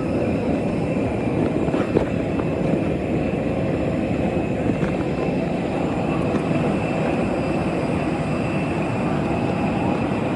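Jet aircraft engines running, a steady rush of noise with a thin high whine over it.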